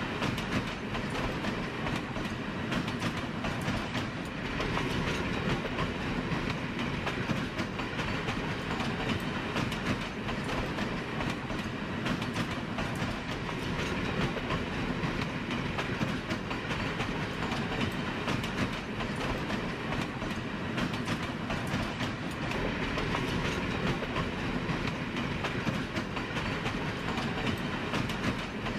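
A train running steadily along the rails, with a continuous rumble and the fine clatter of wheels over the track.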